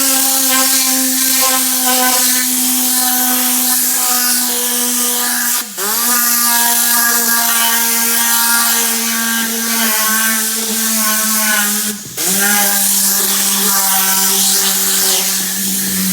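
Tornador Black pneumatic cleaning tool running on compressed air: a loud, steady high whine over a rush of air. It is cut off twice, about six and twelve seconds in, and each time spins back up with a rising whine.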